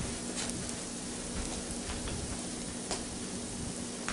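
Hash brown and egg sizzling and crackling in hot fat in a Copper Chef square frying pan, with scattered small pops over a steady frying hiss and a faint steady hum.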